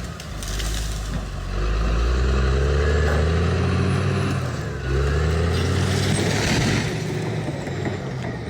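Bulldozer's diesel engine running and revving, its pitch rising in the first couple of seconds, dropping about five seconds in, then rising again.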